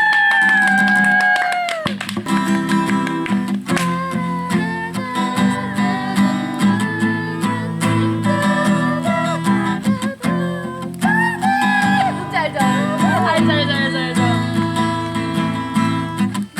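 Acoustic guitar strummed in steady chords, with a voice singing along: a long held sung note that sags and ends about two seconds in, then sung lines coming and going over the strumming.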